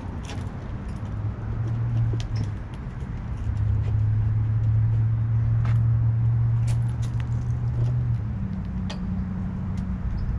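A motor vehicle engine running with a steady low hum that steps up to a higher note about eight seconds in, over scattered light clicks and clinks.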